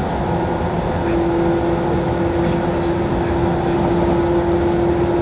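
Running noise of a JR 185 series electric train heard from inside the passenger car: a steady rumble with a constant hum. The hum drops out about half a second in and returns about a second in.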